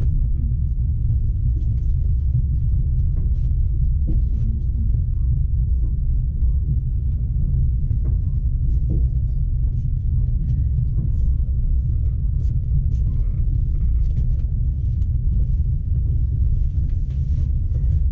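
Passenger train running, a steady low rumble with faint scattered clicks and rattles.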